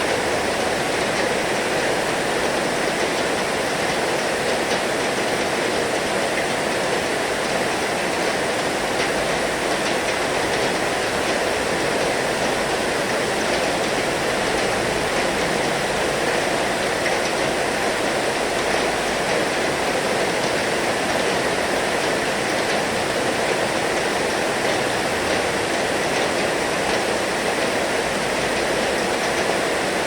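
Heavy rain falling steadily: a dense, even hiss without let-up.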